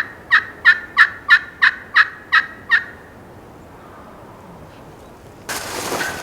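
A wild turkey calling: a run of about ten evenly spaced notes, about three a second, ending about three seconds in. Near the end comes a sudden rush of noise.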